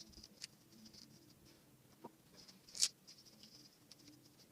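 A few light taps and clicks of small toy figures being handled and set down, the clearest about three seconds in, with near silence between.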